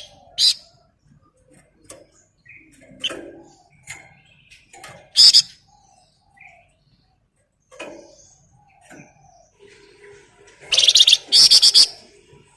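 Flamboyan songbird singing in short, loud bursts of rapid high chattering notes, the dense 'ngebren' song prized by Indonesian bird keepers: one burst about half a second in, one near the middle, and two close together near the end, with quieter chirps between.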